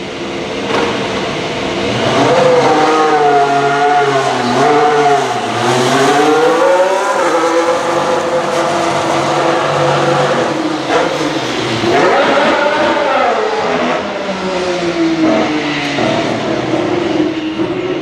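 2019 Formula 1 car's 1.6-litre turbocharged hybrid V6 engine at racing speed on track. The engine note repeatedly falls and climbs as the car brakes, shifts and gets back on the throttle.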